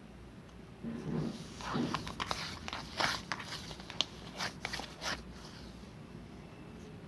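Slime being squished and pressed by hand, giving soft squelches and then a run of sharp clicks and pops from about two to five seconds in.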